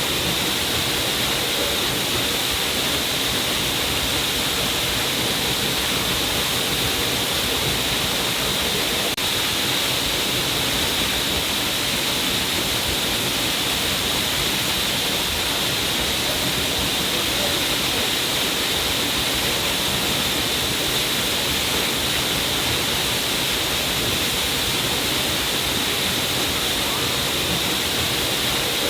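A stream of water falling down a cliff face, a steady unbroken rush of splashing water.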